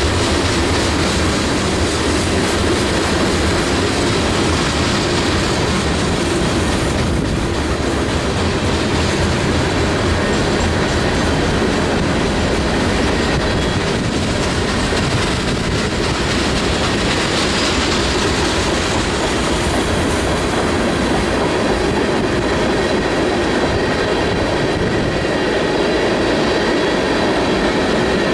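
A train's cars rolling steadily past on the rails, wheels clattering on the track.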